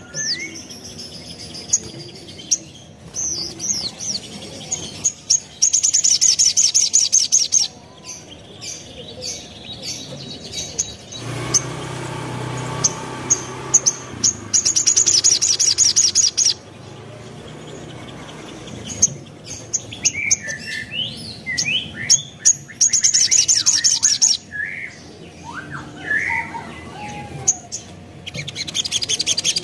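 Sunbird (sogon, sogok ontong) singing: about four bursts of very fast, very high-pitched trills, each about two seconds long, with short sliding chirps in between. A duller rushing noise comes in briefly around the middle.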